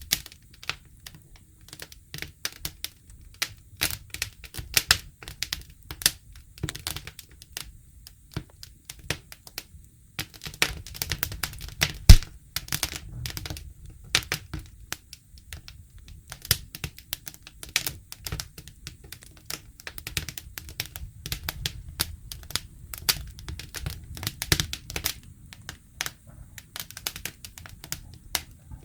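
Wood fire crackling, with dense irregular snaps and pops over a low rumble. One sharp, much louder pop comes about twelve seconds in.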